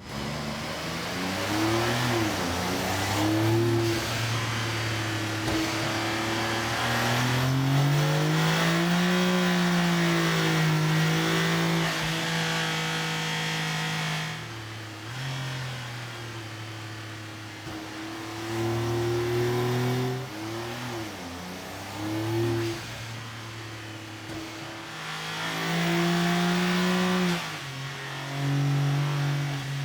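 Porsche 911 (992) Carrera 3.0-litre twin-turbo flat-six running and revving. Its pitch rises and falls, holds steady at several engine speeds for seconds at a time, and jumps abruptly a few times.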